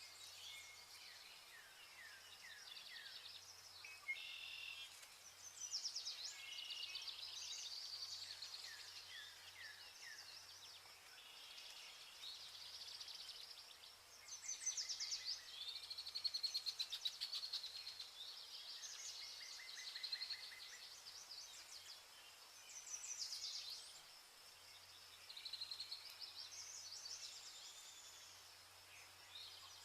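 Vernal hanging parrots calling: many high, thin chirps and rapid twittering trills, overlapping, with busier stretches near the middle. A faint steady low hum lies under them.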